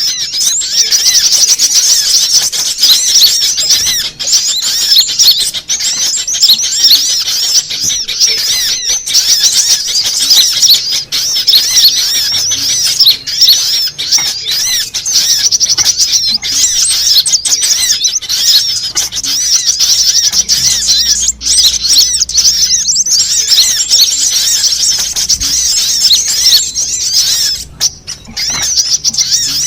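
Sunbirds calling: a dense, unbroken stream of high, rapid twittering chirps, a lure recording played to draw sunbirds in.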